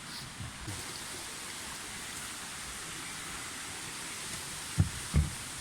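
Steady rushing of a river flowing below. Two dull low thumps come near the end.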